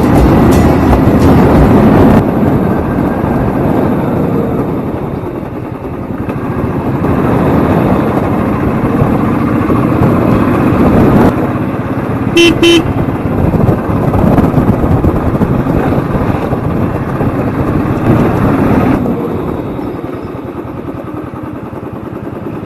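Royal Enfield Thunderbird 350X's single-cylinder engine running as the motorcycle is ridden along the road, with a constant dense rush. About twelve seconds in, a horn gives two quick short toots.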